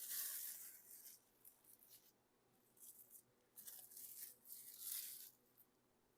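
Plastic wrap crinkling and rustling faintly in a few short bursts, the strongest at the start and two more about four and five seconds in.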